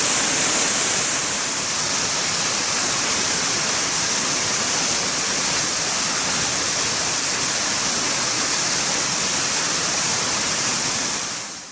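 Waterfall rushing steadily, a dense, even hiss of falling water that fades out quickly at the very end.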